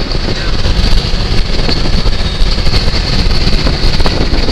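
Gusty wind buffeting the microphone ahead of a thunderstorm, a loud, uneven rumble with a steady high hiss above it.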